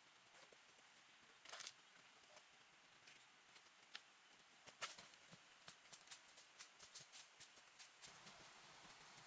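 Near silence: faint background hiss with a soft scrape about a second and a half in, then scattered faint clicks and taps that come more often in the second half.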